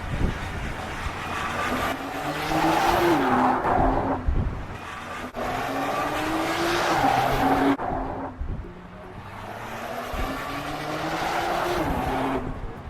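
Nissan GT-R R35's 3.8-litre twin-turbo V6 pulling hard on track, with tyre squeal. The revs climb three times, each climb falling away sharply.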